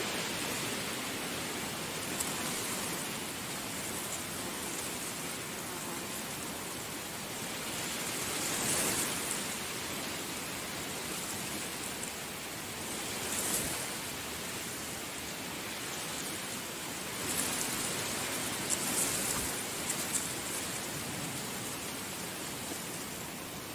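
Heavy rain falling steadily, with a few brief swells where it grows louder for a moment.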